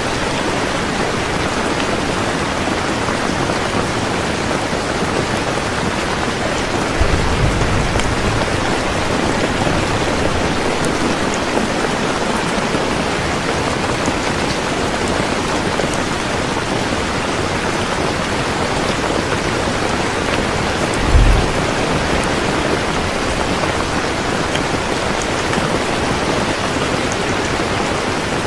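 Heavy rain falling steadily, a dense even hiss of drops. Low rumbles of thunder swell about a quarter of the way in and briefly again about three quarters through.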